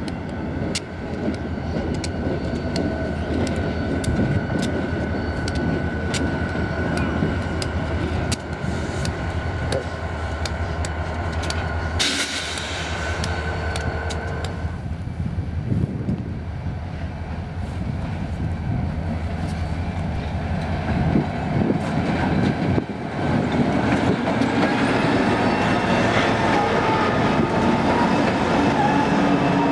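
Freight trains passing: EMD diesel-electric locomotives running and steel wheels clicking over rail joints, with sharp clicks in the first half. The sound changes abruptly a few times.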